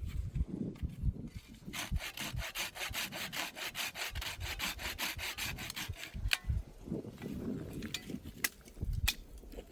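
Hand saw cutting through wood in quick, even strokes for about four seconds, then stopping, followed by a few scattered knocks.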